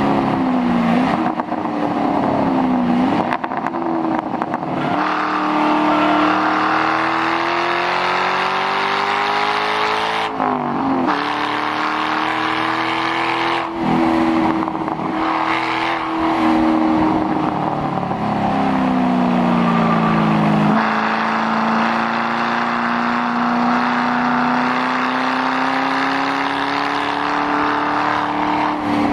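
2006 Mustang GT's 4.6-litre V8 running through a muffler-delete exhaust under hard track driving. The engine note rises and falls with speed, with several sudden pitch changes at gear shifts and on and off the throttle.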